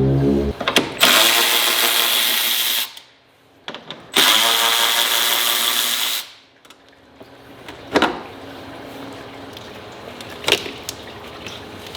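A handheld power tool running in two bursts of about two seconds each, with a brief pause between, followed by a few sharp clacks of parts or tools.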